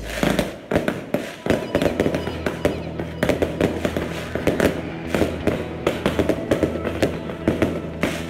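Bottle rockets and firecrackers going off in a dense, continuous barrage: many sharp cracks and bangs a second, overlapping without a break.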